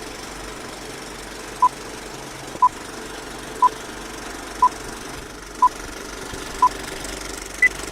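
Dodge Scat Pack's 392 HEMI V8 idling steadily. Over it come six short electronic beeps, one a second, and then a single higher beep, like a countdown.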